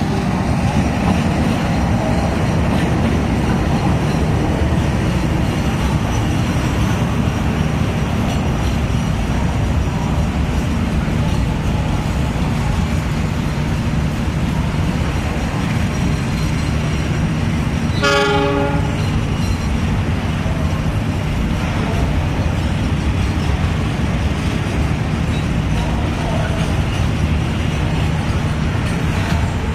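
Long train passing, a steady rumble of wheels on rails that stays level throughout, with one short horn toot about two-thirds of the way through.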